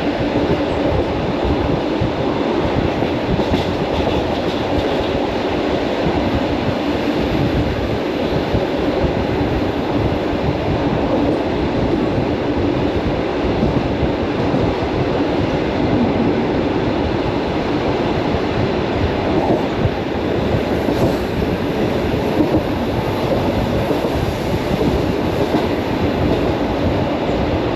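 Commuter electric train running along the line, heard from inside the carriage: a steady rumble of wheels on the track with rail joints clicking.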